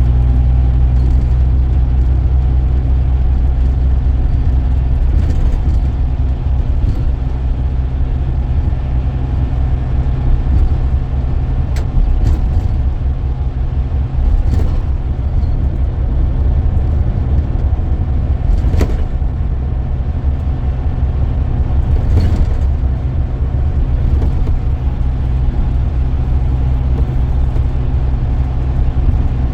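Scania K440EB coach under way, its engine running with a steady low drone, heard from inside the coach. A few brief sharp knocks sound over it.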